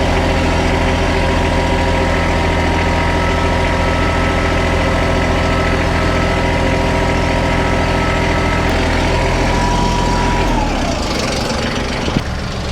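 An engine running at a steady speed, then slowing down about ten and a half seconds in.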